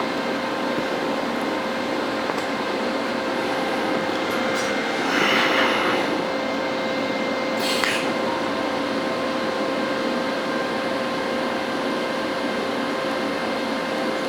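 TIG welding arc on stainless steel: a steady buzzing hiss with a constant hum. It grows louder for about a second around five seconds in and flares briefly near eight seconds.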